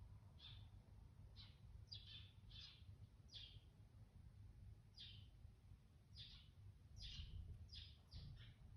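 A small bird chirping softly: about a dozen short, quick chirps, each falling in pitch, spaced irregularly and coming a little faster near the end.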